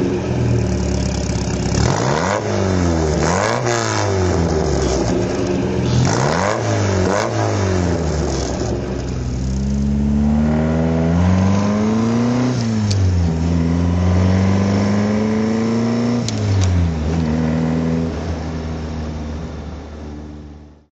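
1960 Triumph TR3A four-cylinder engine being revved: several quick blips of the throttle, then one longer climb and drop, settling back to a lower steady note before the sound fades out at the end.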